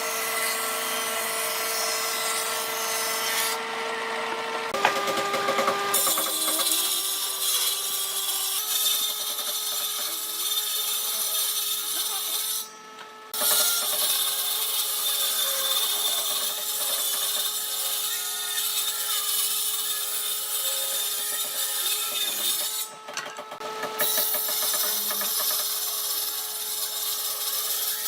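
Electric power tool working wood: a steady motor tone over the hiss of the cut, its pitch shifting under load a few seconds in. It breaks off sharply for a moment twice, near the middle and about two thirds through.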